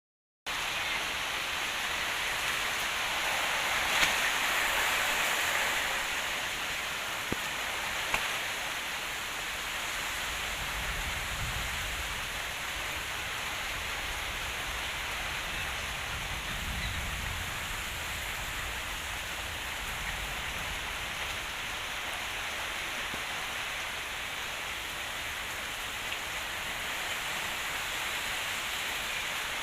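Heavy rain falling steadily, with a few sharp drip clicks and low gusts of wind on the microphone partway through.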